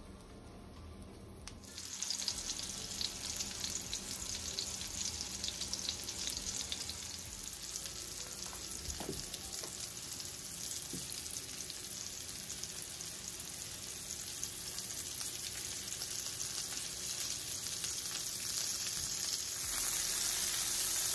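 Diced salmon frying in olive oil and butter in a nonstick skillet: a steady, crackling sizzle that comes in loud about two seconds in and grows louder near the end.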